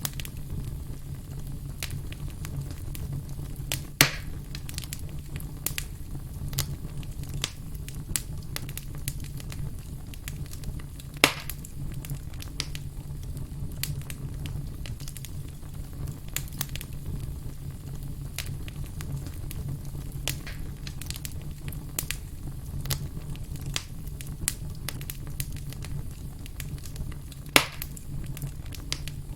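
Campfire burning, crackling with many small pops over a steady low rumble, with three louder sharp pops, one about four seconds in, one about eleven seconds in and one near the end.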